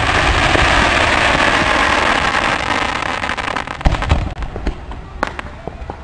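Aerial fireworks: a loud, dense hiss and crackle for the first four seconds, a low thump just before four seconds in, then scattered sharp pops and crackles that thin out and fade.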